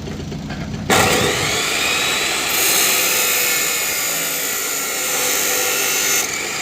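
A power cutter switching on with a sudden whine about a second in, then its disc cutting through a steel rebar (sariya) with a harsh, high hiss that grows stronger through the middle and eases near the end.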